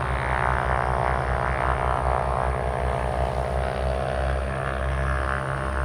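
Aircraft engine running on the ground, a steady whining hum whose pitch drifts slowly partway through.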